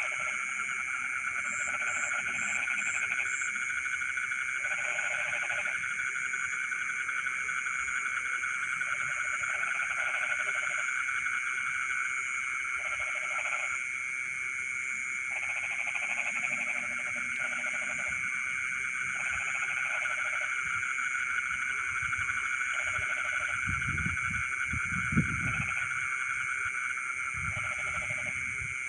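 Chorus of frogs calling in flooded rice fields at night: a steady, dense high trilling, with lower croaking calls that come and go every second or two. A few low thumps near the end.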